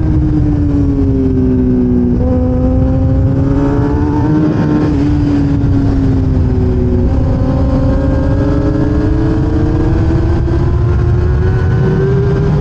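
1000cc racing motorcycle engine heard onboard at speed on a circuit: its note drops over the first couple of seconds, holds low with small shifts through the middle, then climbs steadily through the second half as the bike accelerates, over a heavy rush of wind noise.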